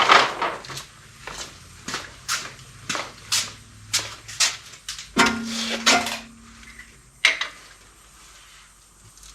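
Hydraulic oil glugging out of a quart bottle into the mower's hydraulic tank: a run of gulps about two a second that slows and fades, with a short steady tone about five seconds in and one last gulp a couple of seconds later.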